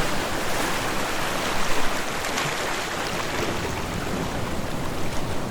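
Ocean waves washing onto a shore, a steady noisy rush with small swells in loudness and a faint crackle of water.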